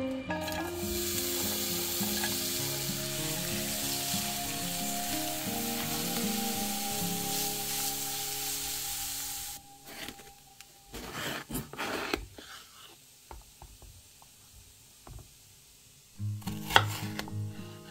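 Chopped onion and grated carrot sizzling in oil in a nonstick frying pan while a spatula stirs them. The sizzle cuts off about halfway through, leaving a few short scraping strokes. Near the end a knife slices a red bell pepper on a wooden cutting board with one sharp knock.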